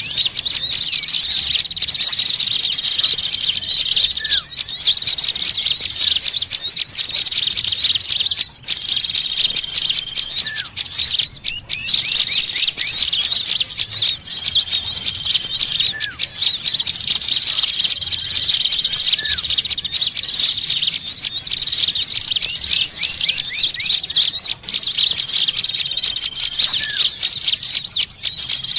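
A dense, continuous chorus of many small birds chattering and chirping, with a few short held whistles. It is a lure ('pikat') recording of noisy, agitated small birds, played to draw wild birds in.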